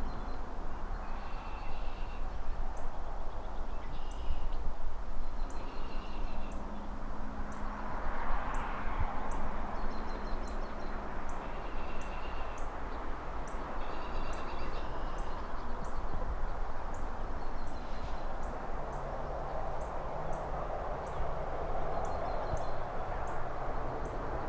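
Distant city traffic making a steady hum, with cars swelling past about eight seconds in and again near the end. Over it, birds chirp in short repeated phrases.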